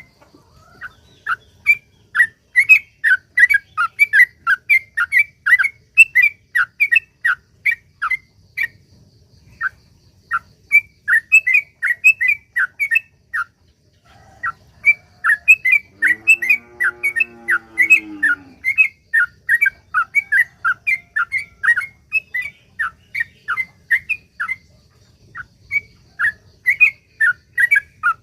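Yellow-vented bulbul (trucukan) singing a long, rapid run of short repeated notes, several a second, with a few brief pauses. Around the middle, a lower drawn-out call sounds underneath the song for two or three seconds.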